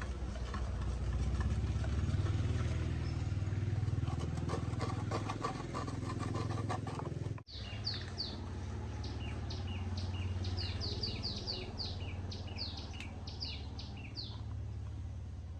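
A steady low mechanical hum like a running engine. After a cut about halfway through, a bird calls in quick repeated chirps over it.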